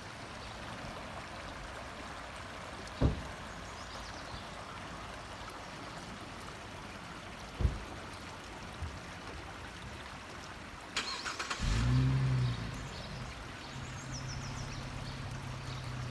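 Steady rush of floodwater running across a street, with two brief thumps. About eleven seconds in there are a few clicks, then a car engine starts up, rising briefly in pitch before running steadily; the engine is the loudest sound.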